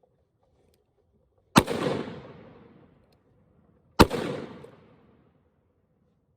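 Two shots from a Ruger Super Blackhawk .44 Magnum single-action revolver, about two and a half seconds apart, each followed by an echo that dies away over about a second.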